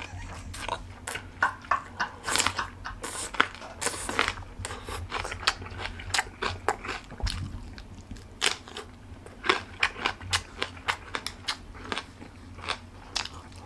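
Close-up mouth sounds of a raw green chili pepper being bitten and chewed: an irregular string of sharp, crisp crunches and wet chews.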